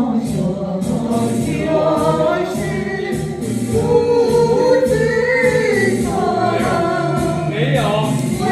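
Karaoke music track playing, with choir-like voices holding long notes over the accompaniment.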